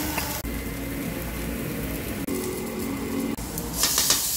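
Diced onions sizzling as they sauté in a stainless steel frying pan, with a spoon stirring. Near the end come a few quick metal scrapes and taps of a spoon against the pan as minced garlic goes in.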